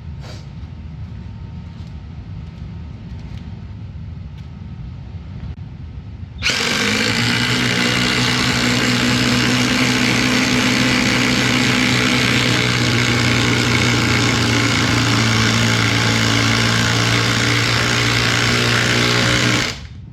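Cordless impact driver running flat out for about thirteen seconds with a steady pitched whine. It starts suddenly about six seconds in and cuts off abruptly just before the end.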